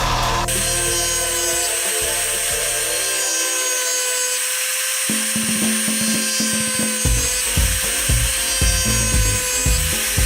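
A power tool running steadily on wood, with a steady whine, over background music.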